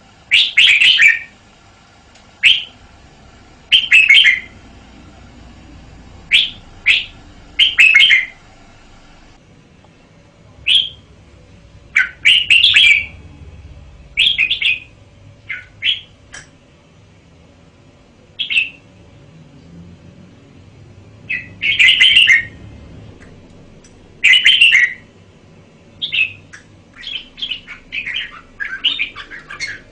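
Red-whiskered bulbul singing: short, loud phrases every second or two, coming thicker and quicker near the end.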